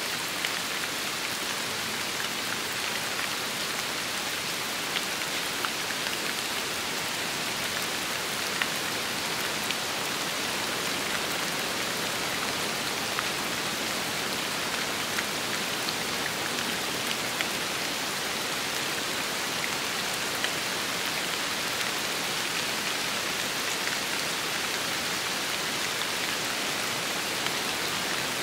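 Steady rain falling, with scattered individual drops ticking more sharply above the even patter.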